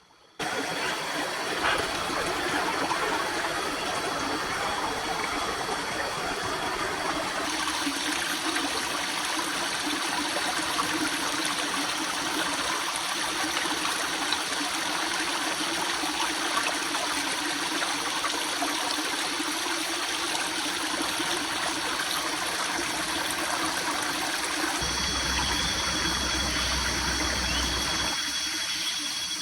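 Steady rush of running water, like a stream, cutting in suddenly at the start; its character shifts a few times, as between separate shots.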